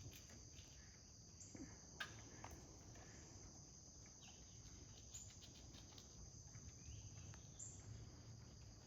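Faint, steady high-pitched drone of an insect chorus, with a few faint clicks.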